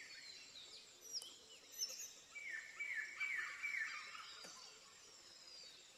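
Faint wild bird calls: a few high chirps, then about halfway through a quick run of about six short notes, each sliding down in pitch.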